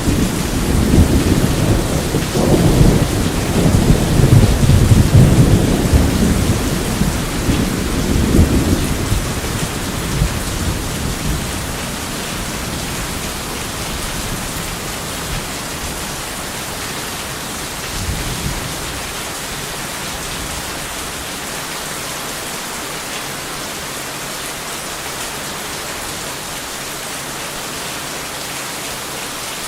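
Steady rain with a long rolling rumble of thunder that fades away over the first ten seconds or so. A short, fainter rumble follows about two-thirds of the way through, and then only the even hiss of the rain remains.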